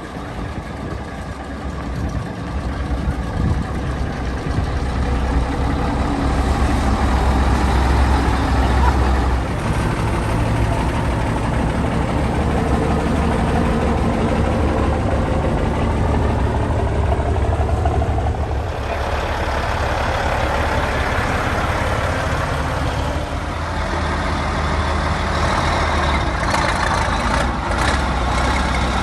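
Diesel semi-truck engine running close by, a low steady rumble that builds over the first several seconds and holds, with a few sharp clicks near the end.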